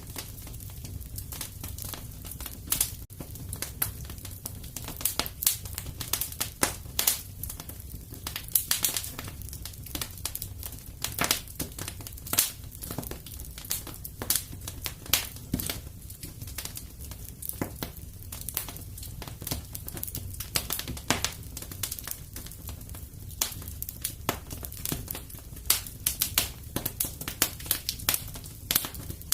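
Wood fire crackling and popping in a fireplace: a steady low rumble of the flames with frequent irregular sharp snaps.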